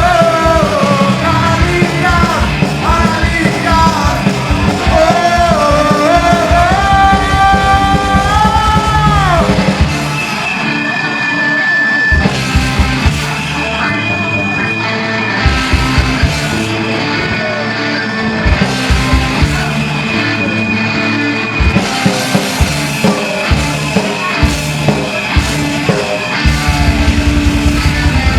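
Live punk rock band playing loud, with a singer's voice over the band for roughly the first ten seconds. The band then drops into a thinner passage of guitar lines and sparse drum hits. The full band comes back in about 26 seconds in.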